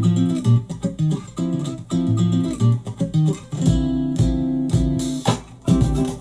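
Guitar music played back through the sEARius S1 portable Bluetooth speaker: plucked guitar notes, with a deep bass line coming in about two-thirds of the way through and a couple of sharp drum-like hits near the end.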